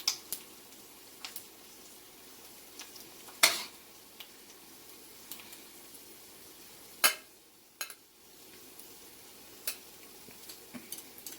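A serving utensil clinking and scraping against the pan and plate as stir-fried chicken is spooned onto rice: a handful of sharp knocks, the loudest about three and a half and seven seconds in, over a faint steady hiss.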